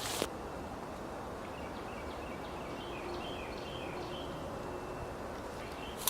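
Faint birdsong: a run of short chirps over a steady woodland background hiss. A loud rustling noise cuts off just after the start, and another brief loud burst comes at the very end.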